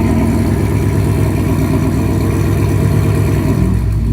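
2017 Mustang GT's 5.0 L V8 idling as it warms up from a cold start, a steady pulsing exhaust through long-tube headers, an X-pipe and Flowmaster Outlaw mufflers. Near the end the idle drops slightly lower.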